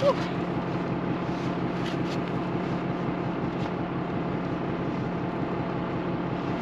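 Tractor engine idling steadily, an even low hum with faint ticks over it.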